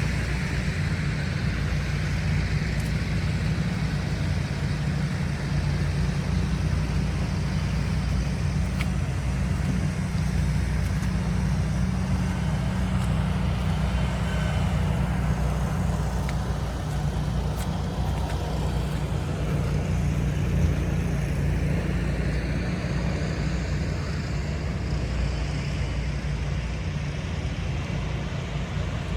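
Steady low rumble of city street traffic, cars and heavier vehicles passing.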